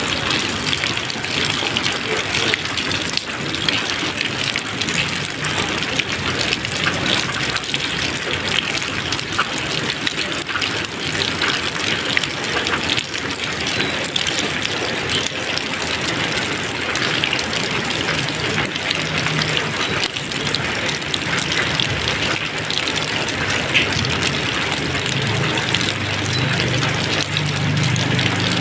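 Steady rain: a dense, even hiss of falling drops with no thunder. A faint low rumble joins in under it over the last few seconds.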